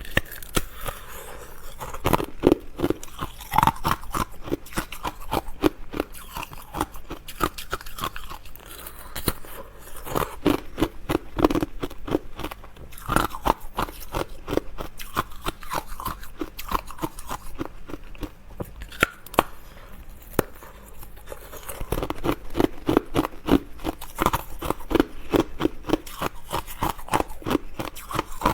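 Close-miked crunchy chewing of crisp food: a fast, continuous run of crackling bites and chews, easing into a short lull about two-thirds through before picking up again.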